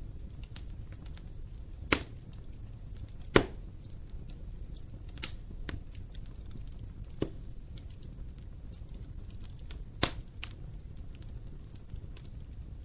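Burning wood in a fireplace crackling over a low, steady rumble of flames, with scattered small ticks and several sharp pops. The loudest pops come about two seconds, three and a half seconds and ten seconds in.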